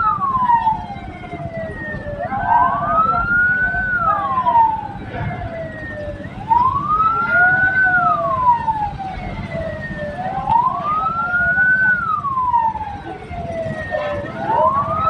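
Hearse siren wailing in slow cycles, each tone rising and then falling, about one cycle every four seconds, over the low rumble of the vehicle running.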